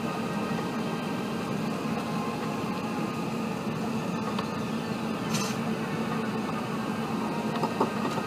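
Steady cabin hum inside an Airbus A380 taxiing after landing, from its engines at idle and the cabin air conditioning. There is a brief hiss about five seconds in.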